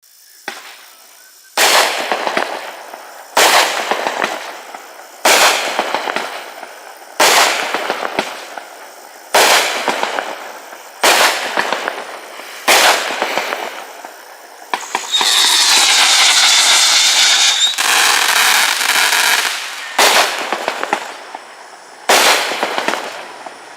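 'Deep Ocean' consumer firework going off shot after shot: a sharp report about every two seconds, each trailing off in crackle. About fifteen seconds in, one longer burst of steady crackling and hissing lasts some three seconds before the single shots resume.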